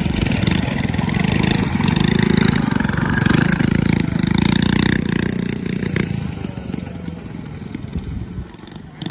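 Small engines of racing mini bikes running loud, then fading about six seconds in as the bikes move away.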